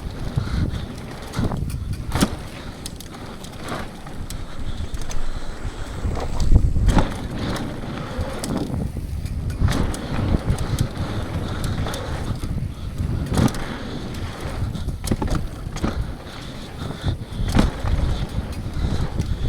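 Downhill mountain bike descending a rough dirt and rock trail: a steady low rumble of tyres on the ground, broken by frequent sharp knocks and rattles as the bike hits bumps.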